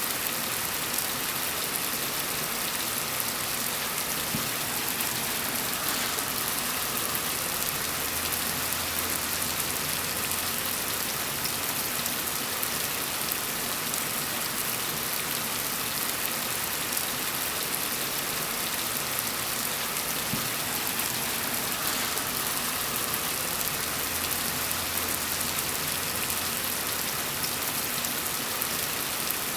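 Steady rain falling on a surface, an even hiss of many drops that keeps on without a break.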